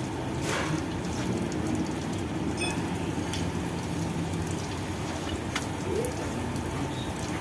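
Oil running steadily out of an old Toyota forklift engine as it is let out, a continuous liquid flow with a few small clicks.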